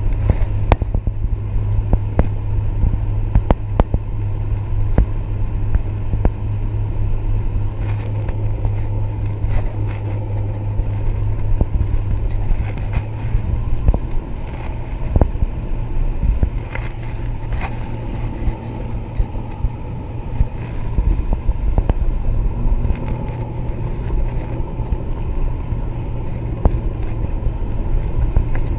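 Mako 19 Pro Skiff's outboard motor running under way, a steady low hum whose note changes about halfway through, with scattered sharp knocks throughout.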